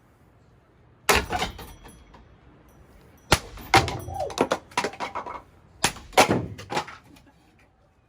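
Ceiling fan being smashed: loud bangs and crashes with clattering after them, one about a second in, a quick run of blows around three to five seconds, and another pair of heavy hits around six seconds.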